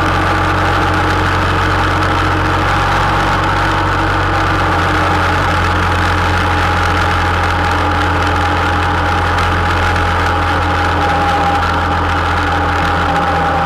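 Honda Interceptor 700's V4 engine running at a steady, even note while the motorcycle cruises.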